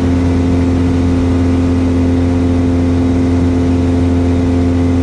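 Steady drone of a Cessna 172S's four-cylinder Lycoming engine and two-blade propeller in flight, heard in the cockpit as an unbroken low hum with a steady tone above it.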